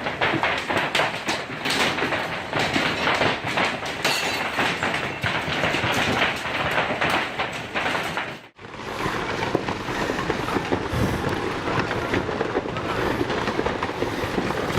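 Hailstones pelting down hard, a dense rattling clatter of countless small impacts. It cuts off abruptly about eight and a half seconds in, and a similar rough clatter resumes straight after.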